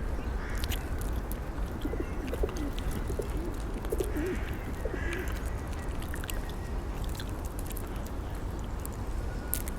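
A pigeon cooing: a run of low, wavering coos from about two to five seconds in, with a few faint higher bird calls.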